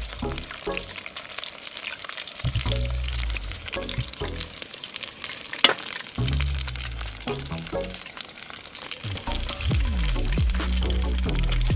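Chicken tempura deep-frying in hot oil, a dense crackling sizzle with one sharp pop a little past halfway, over background music.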